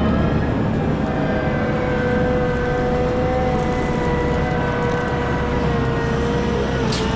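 Cat 972M XE wheel loader running under steady load: a deep diesel drone with a high whine over it. The whine dips slightly in pitch near the end, and there is a short click just before the end.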